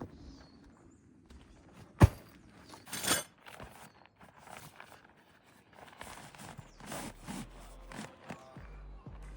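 Footsteps and rustling outdoors, with one sharp knock about two seconds in and a short scraping rustle about a second after it.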